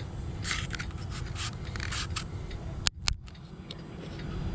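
Footsteps scuffing at a walking pace, about two a second, over a low steady rumble. Two sharp clicks come about three seconds in.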